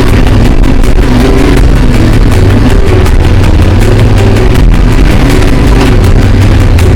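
Motorcycle engine running steadily under load on a rough track, loud and close, with a rushing noise over it.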